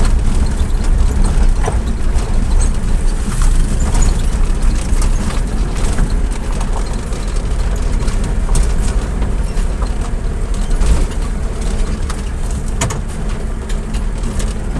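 A road vehicle on the move: a steady low rumble of engine and road noise, with scattered rattles and clicks over it.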